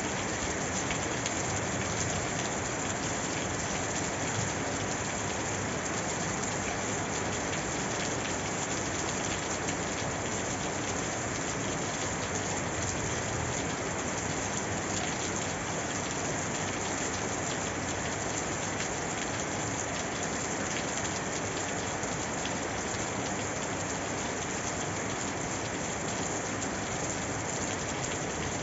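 Steady rain falling on a surface, an even hiss of many drops with faint individual drop ticks.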